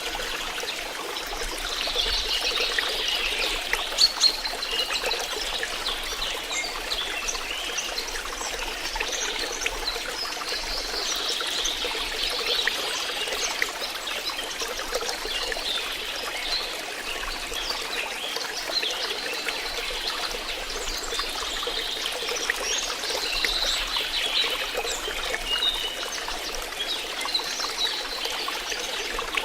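Flowing water trickling and splashing steadily, with many small bright drips and gurgles.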